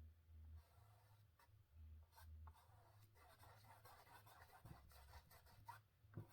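Faint paintbrush strokes rubbing and dragging over canvas as paint is blended, over a low hum.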